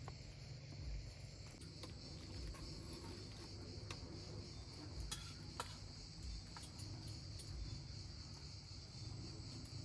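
Crickets chirping in a steady, continuous high trill, with a few faint clicks scattered through.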